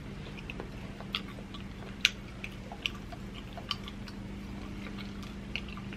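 Close-miked chewing of rotisserie chicken: soft wet mouth clicks and smacks about once a second over a steady low hum.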